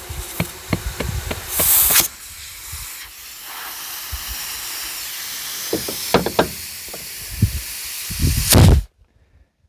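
Compressed air hissing at the valve stem of a tractor tire's inner tube as it is filled from an air compressor, with scattered knocks and clunks of handling; the hiss cuts off suddenly near the end.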